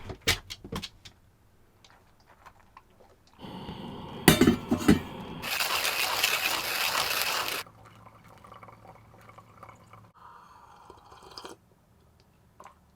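Kitchen sounds: sharp clinks of glass and dishes, then water running into a container for about two seconds in the middle, followed by quieter handling.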